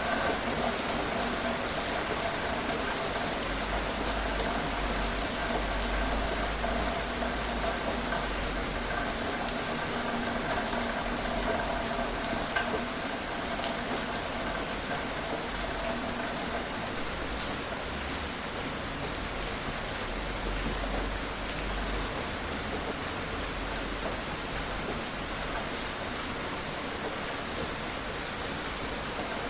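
Steady gentle rain falling, an even hiss with scattered drop ticks. A faint steady hum lies underneath through the first half and fades out around the middle.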